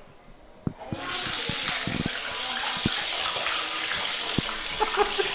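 Sausage pieces dropped by hand into hot cooking oil in a wok, sizzling. The sizzle starts suddenly about a second in and stays a steady loud hiss, with a few soft knocks as pieces land.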